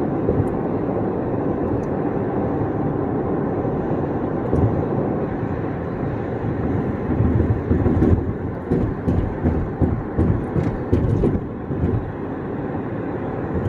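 Road noise inside a moving car at highway speed: a steady low rumble of tyres and engine. From about halfway through it turns rougher and uneven for a few seconds, as over a patchy road surface, then settles again.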